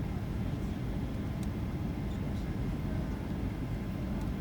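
Steady low rumble of a jet airliner's engines and airflow, heard from inside the passenger cabin on approach to landing, with a couple of faint clicks.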